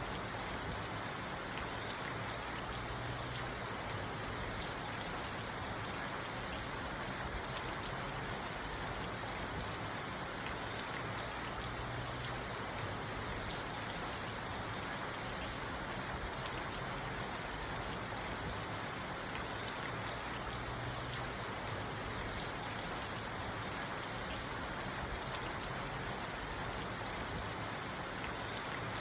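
Steady rain falling on a parked car's roof and windows, heard from inside the car: an even, unbroken patter with no thunderclap.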